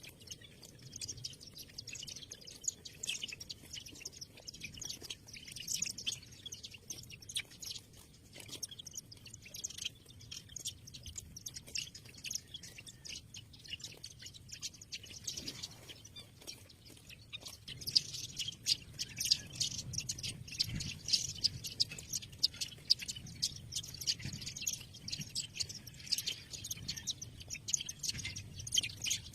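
Many small trapped birds chirping at once in cages, a continuous busy twittering that grows denser about halfway through.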